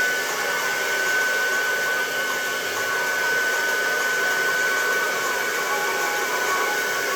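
Hair dryer running steadily during a blow-dry, a constant rush of air with a steady high whine over it.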